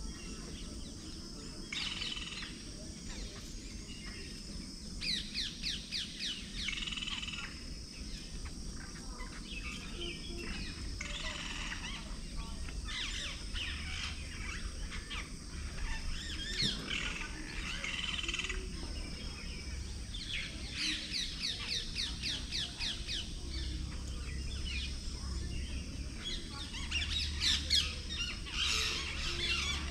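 Rapid runs of high-pitched chirping calls, many notes a second, coming in bursts every few seconds over a steady outdoor background.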